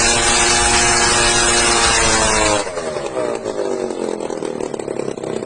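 Small engine of a homemade aircraft running fast, then throttled back about two and a half seconds in: the loud rushing drops away and the pitch slides down to a lower, pulsing idle.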